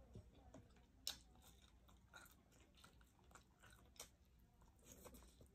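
Faint close-up chewing and mouth sounds of a person eating chicken inasal by hand, with scattered small clicks and smacks, the sharpest about a second in and again about four seconds in.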